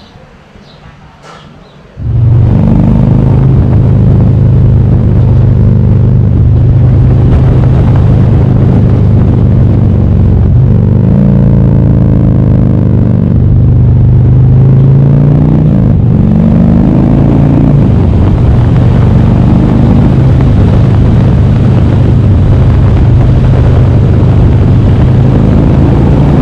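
Motorcycle engine running at road speed, starting suddenly about two seconds in, its pitch dipping and rising again a couple of times in the middle as the throttle and gears change.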